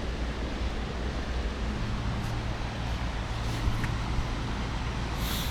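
Steady rush of a flood-swollen river running high, close to bursting its banks, with a low steady rumble beneath it.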